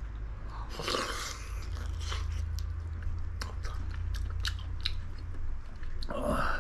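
Close chewing and biting of a mouthful of spicy braised chicken stew, with a run of sharp wet clicks through the middle, over a steady low hum.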